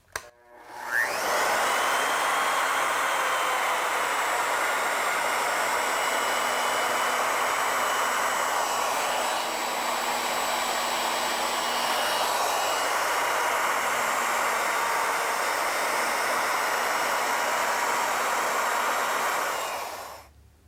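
Router with a 1/2 inch core box bit on an ornamental mill, spinning up about a second in and then running steadily while milling a flute. Its pitch sags twice in the middle under the load of the cut, and it winds down near the end.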